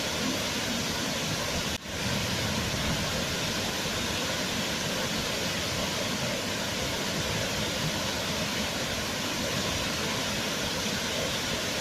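Waterfall rushing: a steady, even roar of falling water, with a momentary dip in level about two seconds in.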